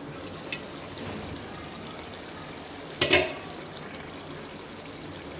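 Mutton, onions and tomatoes sizzling steadily in ghee in a wok, the water nearly cooked off. A short loud clatter about three seconds in as the glass lid comes off.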